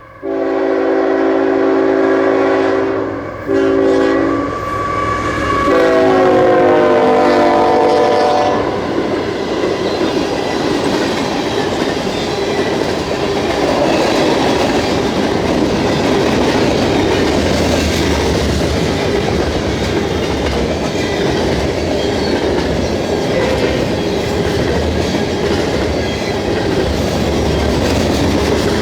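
A freight train's lead diesel locomotive sounds its multi-chime horn in three blasts, long, short and long, the third at a different pitch. The train then rolls past with a steady clatter of wheels over the rail joints and a low diesel engine hum underneath.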